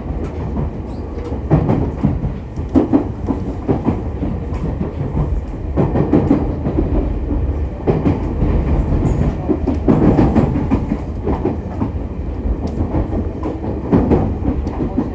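Running sound heard inside the motor car of an E501 series electric train at speed: a steady rumble of wheels on rail with the clickety-clack of rail joints, swelling louder every few seconds.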